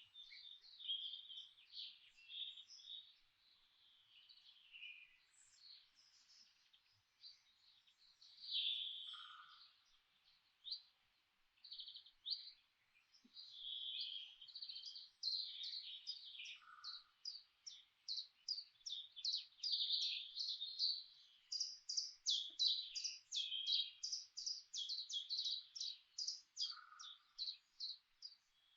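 Several songbirds chirping and singing, with a fast run of rapidly repeated high chirps through the second half and a lower short note that recurs three times.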